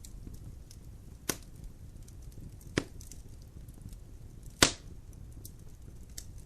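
Wood fire burning in a fireplace: a low rumble of flames with soft crackles and three sharp pops as the logs snap, the loudest near the end.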